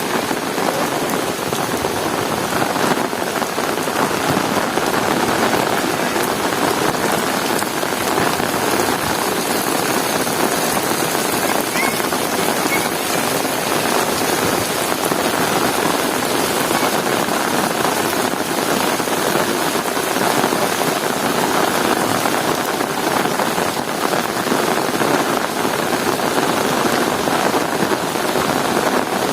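Heavy rain falling steadily on hard surfaces, a dense, even hiss without a break.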